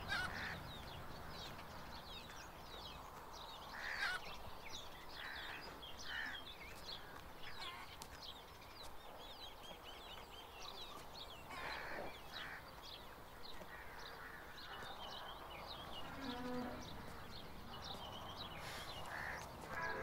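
Birds chirping over a quiet outdoor background, with many quick high chirps and a few louder short calls now and then.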